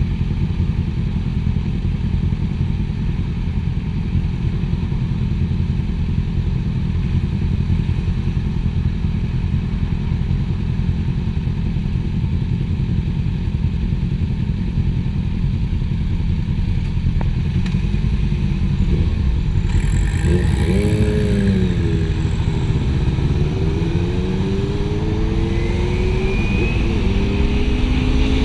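Motorcycle being ridden, its engine running under a steady low rumble. About two-thirds of the way in, the engine note dips and climbs several times as the revs change.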